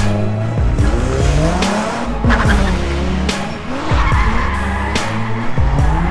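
LS1 V8 engine of a Mazda MX-5 drift car revving up repeatedly, with tyres squealing as it drifts, under background music with a steady beat.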